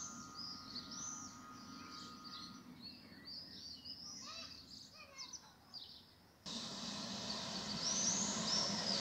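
Small birds chirping repeatedly over faint outdoor background noise. About six and a half seconds in, the sound cuts suddenly to a louder scene where the chirping goes on over a low steady rumble from an approaching electric-hauled train.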